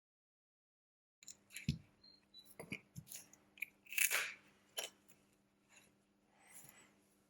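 Small clicks, taps and scrapes of repair tools handling a smartphone's parts, starting after about a second of dead silence, with a louder scrape about four seconds in.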